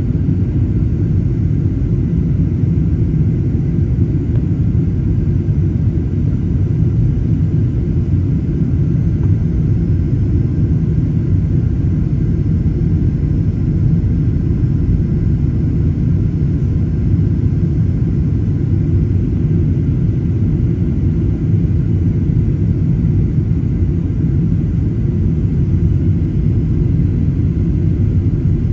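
Steady low rumble of a Boeing 737-800's CFM56 jet engines and cabin noise heard from inside the passenger cabin, with a faint steady whine above it.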